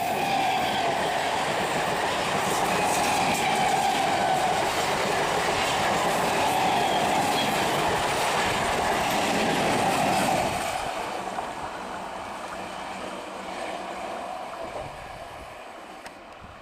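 Jodhpur Express passenger train rushing past at speed, its wheels running loud on the rails with a wavering ringing tone. About ten seconds in, the train has gone by and the noise fades steadily away.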